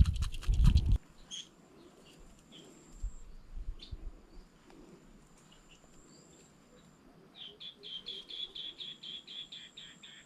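Birds calling: scattered chirps, then a quick run of repeated chirping notes, about five a second, starting about two-thirds of the way through. A short clatter of knocks and thumps comes in the first second.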